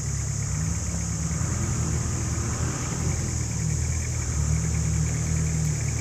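A 4x4 vehicle's engine idling steadily, a little louder about four and a half seconds in.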